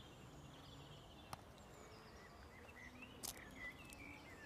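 Near silence with faint short bird chirps, clustering in the second half, and two small clicks, the louder one a little after three seconds in.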